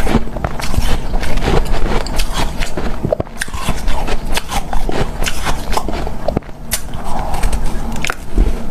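A person biting and chewing hard, snow-like powdered ice, a dense run of crisp crunches with two brief pauses.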